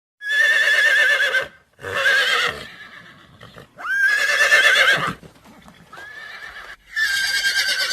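Horse whinnying: about five calls in a row, each a high, wavering call lasting about a second, the fourth one fainter.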